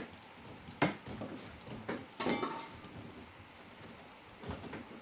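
A few sharp knocks and clatters: one about a second in, a short cluster around two seconds in, and a softer one near the end.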